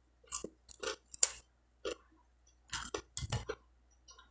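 Close-up crunching and chewing of toasted French bread from a sandwich toaster: short, sharp crunches about every half second, with a denser run of crunches about three seconds in.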